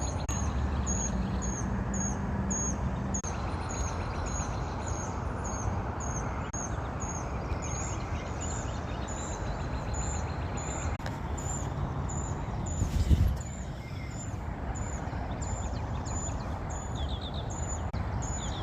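Evening outdoor ambience: a high, thin chirp repeating evenly about twice a second over a steady background hiss and rumble, with a low hum in the first few seconds and a single loud knock about thirteen seconds in.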